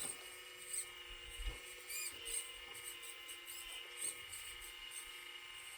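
Small electric motors of a homemade 1/12-scale RC metal excavator running with a faint, steady high whine, and short high-pitched squeaks coming and going every second or so.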